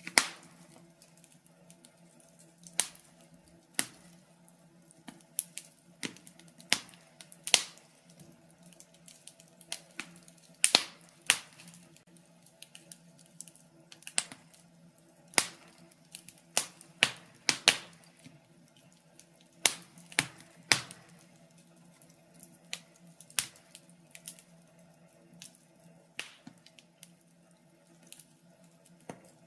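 Wood fire crackling in a fireplace: sharp irregular pops and snaps, roughly one a second with uneven gaps, over a faint steady low hum.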